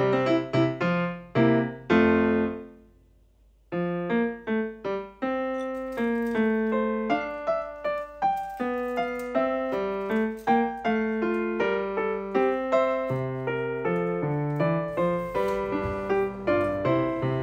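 Background piano music: a phrase of struck notes ends about two seconds in, a brief pause follows, then a new, busier piano passage begins.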